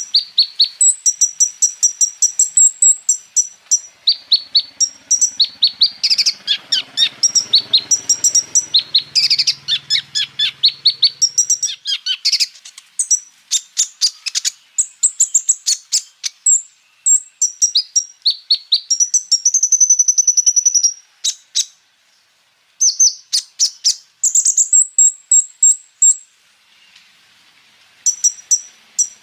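A kolibri ninja sunbird (konin) singing: rapid strings of sharp, high chirps and fast rolling trills, repeated in quick bursts with brief pauses.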